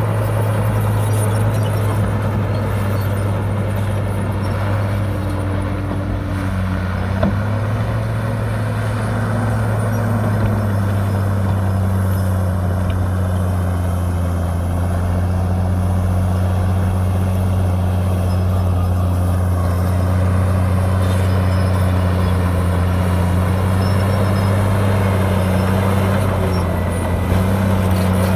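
Diesel engine of heavy earthmoving machinery running steadily under load, a deep even hum whose pitch shifts slightly about a quarter of the way in.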